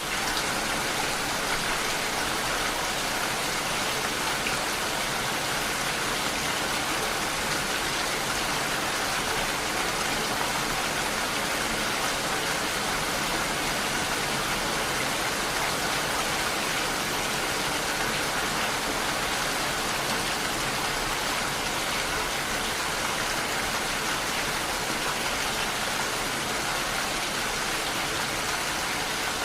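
Steady, heavy rain: a dense, even hiss of falling drops that comes in abruptly at the start and then holds constant, with no separate thunder claps.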